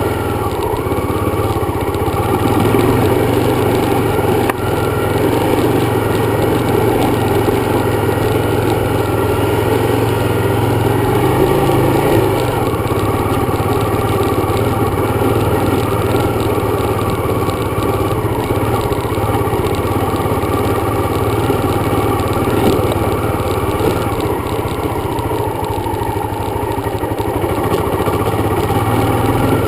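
Dirt bike engine running steadily under way, its pitch shifting a little now and then.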